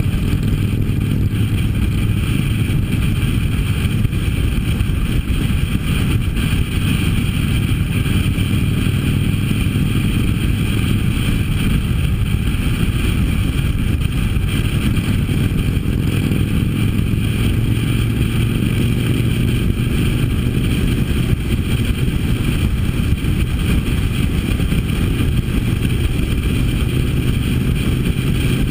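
Harley-Davidson V-twin motorcycle engine running steadily at cruising speed, heard from the bike itself with constant wind and road rush.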